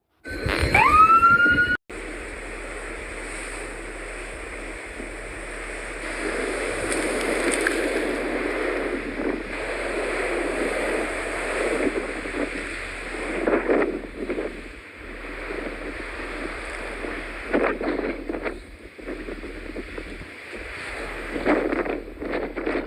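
A short rising siren whoop at the very start, cut off abruptly; then blizzard wind blowing and gusting against the microphone.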